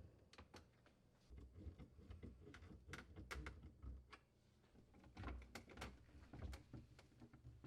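Faint, scattered clicks and low knocks of screws being threaded back into a refrigerator drawer slide assembly.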